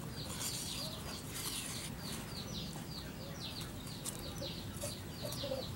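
Small birds chirping continuously in short, high, quickly falling notes, several a second.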